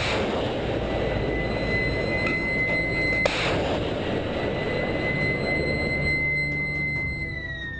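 Jet aircraft engine running, a high steady whine over a rushing roar; the whine drops in pitch near the end.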